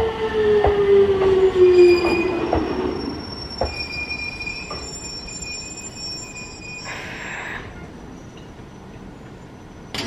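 JR Central 373 series electric train braking to a stop alongside the platform. Its motor whine falls in pitch as it slows, with a few knocks from the wheels over rail joints and a high, steady brake squeal, then a short hiss about seven seconds in as it halts.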